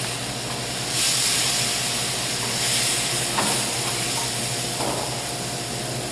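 Hot pan sizzling as chicken stock is added to deglaze it; the sizzle swells about a second in, with a few light knocks of a spoon stirring in the pan.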